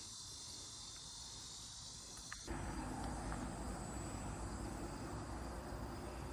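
Steady high-pitched insect chorus, crickets chirring outdoors. About two and a half seconds in it cuts off abruptly and gives way to a low steady rumble with a faint hum.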